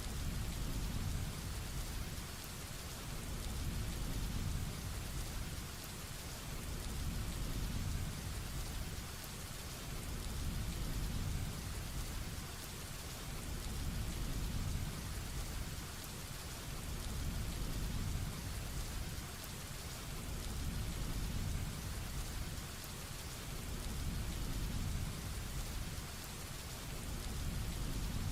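Heavy rain falling steadily, with a low rolling rumble of thunder underneath that swells and eases about every three to four seconds.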